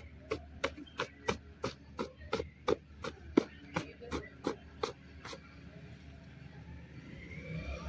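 A steady run of sharp taps, about three a second, stopping about five seconds in, as a dirty item from the car is knocked to shake the dust out.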